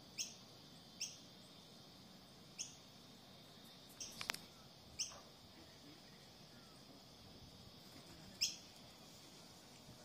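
Short, sharp bird chirps, each a quick falling note, five times at irregular intervals. A quick flurry of clicks comes a little before halfway. Under them runs a steady high-pitched hum.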